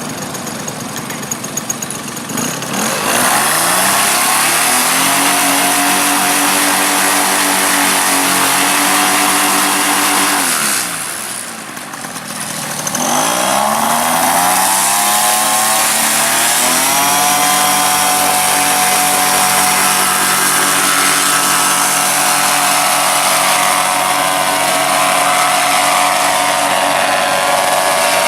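Small RC model aircraft engine running up from a low throttle to a high, steady buzz about three seconds in, easing off briefly a little after the ten-second mark, then throttling back up and holding high.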